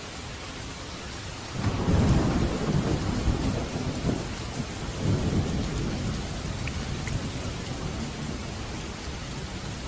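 Steady rain hissing, with a roll of thunder that breaks in about a second and a half in, swells again around five seconds and slowly dies away.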